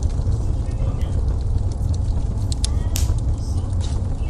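Wood fire burning in a fireplace: a steady low rumble of the flames with sharp pops and snaps, a quick cluster of them about three seconds in.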